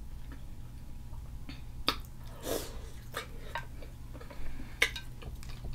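Close-miked chewing with scattered wet mouth clicks and smacks, and a short breath through the nose about two and a half seconds in, over a low steady hum.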